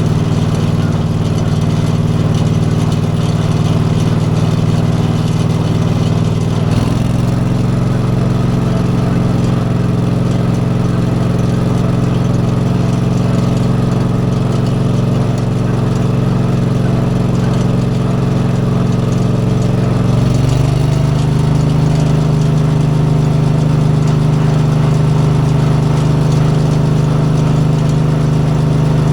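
Briggs & Stratton V-twin gasoline engine running steadily on a converted Iseki tractor while mowing with a bush hog. Its pitch shifts abruptly about seven seconds in and again, with a short rise, about twenty seconds in.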